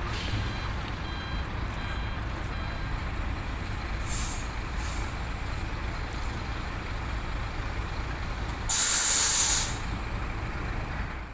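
Ten-wheel HOWO dump truck's diesel engine running steadily, with two short air hisses about four seconds in and a loud air-brake hiss lasting about a second near the nine-second mark.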